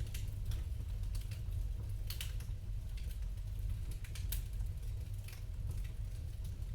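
Fireplace fire crackling: irregular sharp snaps, the strongest about two seconds and four seconds in, over a steady low rumble.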